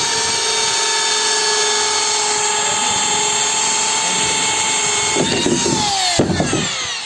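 Electric drill running at a steady high speed while making a hole in a Sintex plastic water tank, with rougher cutting noise about five seconds in. A little after six seconds the trigger is let go and the motor winds down.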